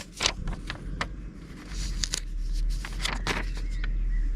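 Low rumble of road traffic heard through the open car door, swelling through the second half, with small clicks and rustles of cards and paper being handled.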